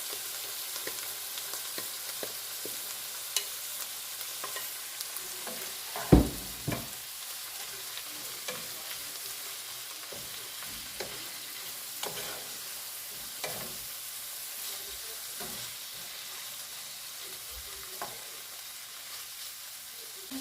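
Chopped onion, peppers, tomato and flaked salt mackerel sizzling in a pot while being stirred, with a steady hiss and scattered knocks of the utensil against the pot; the loudest knock comes about six seconds in.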